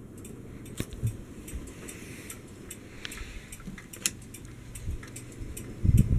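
Hampton Bay Huntington III ceiling fan running with a steady low hum and scattered light ticks and clicks. Near the end come several loud, low, rumbling bursts.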